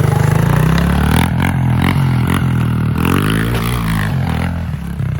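Small single-cylinder pit bike engine revving close by, its pitch rising and falling, then easing off near the end.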